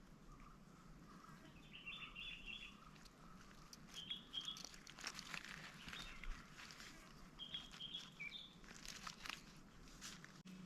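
Small birds chirping in a few short bursts of high notes, over faint scattered clicks and rustles.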